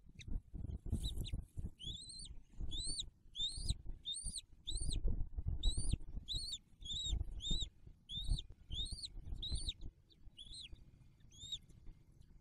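A bird chirping in a steady series of short, high notes that rise and fall, about two a second, starting a couple of seconds in and stopping shortly before the end. Under it runs an uneven low rumbling and rustling.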